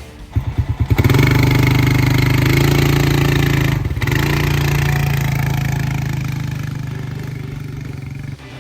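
Off-road vehicle engine accelerating hard from low speed, briefly dropping in pitch about four seconds in as it shifts, then running at steady high revs and slowly fading.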